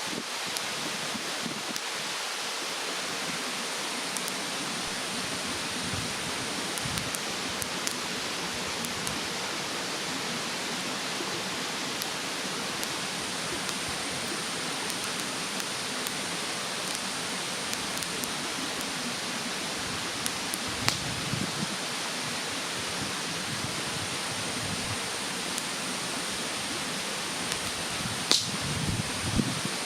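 Wood bonfire in a fire stand crackling with scattered small clicks and a couple of sharper pops, over the steady rushing hiss of a mountain stream.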